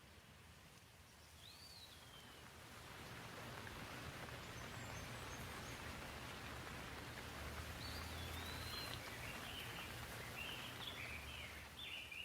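Gentle rain falling steadily, building up over the first few seconds. A bird chirps once about a second and a half in, then calls in a run of short chirps through the second half.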